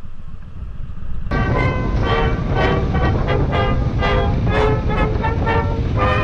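A rapid series of horn toots starts suddenly about a second in, several short notes a second, over a steady low traffic rumble.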